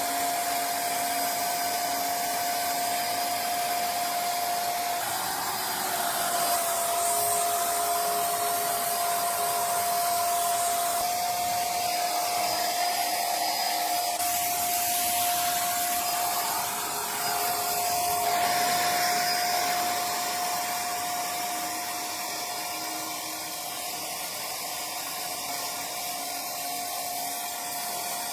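A small motor running steadily with rushing air and a steady whine, growing a little quieter in the second half.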